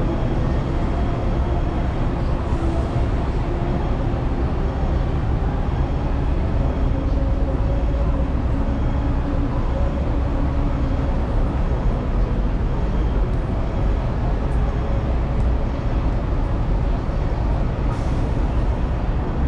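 Hong Kong double-decker electric tram running, heard from on board: a steady low rumble of the wheels on the rails, with a humming tone in the first half that fades about halfway through.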